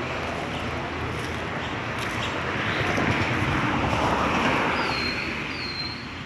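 Street traffic noise: a vehicle passes by, swelling and then fading, with two short high tones near the end.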